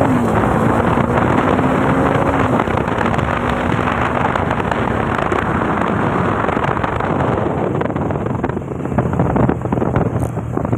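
Bajaj Dominar 400's single-cylinder engine running on the move under heavy wind noise on the microphone. The engine note drops right at the start and again about two and a half seconds in, then the rush of wind covers most of it.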